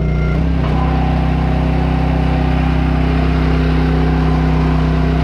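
An engine running at a steady speed, its pitch shifting slightly about half a second in.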